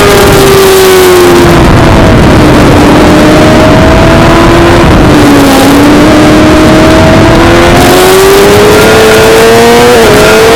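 Suzuki GSX-R600 inline-four engine at high revs under loud rushing noise. The revs fall over the first couple of seconds and stay low through the middle, as when braking into and through a corner, then climb steadily under acceleration, with a brief dip near the end that marks a gear change.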